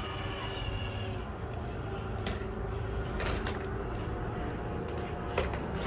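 Scale RC crawler truck driving over rough ground: a faint steady whine from the electric motor and gears over a low rumble, with a few sharp clicks and knocks as the tyres and chassis hit the terrain.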